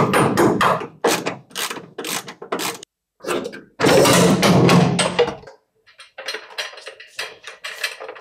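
Workshop tool sounds in quick cuts: a run of short strokes about three a second, then a longer, louder stretch of noise with a low hum beneath it, then lighter, quicker strokes.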